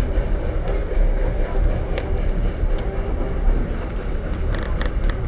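Open passenger car of a steam-hauled excursion train rolling along the track: a steady low rumble of wheels on rail, with a few sharp clicks about two seconds in and again near the end.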